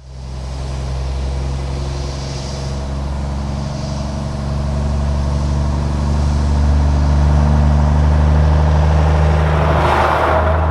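Heavy diesel engine running steadily, fading in at the start and growing a little louder, with a short rush of hiss near the end.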